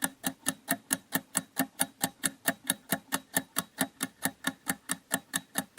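Countdown timer sound effect ticking steadily, about four to five sharp ticks a second, marking the time to answer a quiz question.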